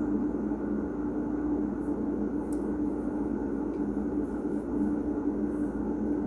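Steady low mechanical hum with a constant droning tone.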